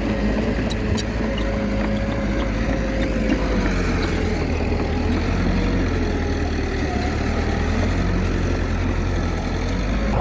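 Komatsu D21A bulldozer's diesel engine running steadily while working, its pitch wavering slightly, with a couple of faint clicks about a second in.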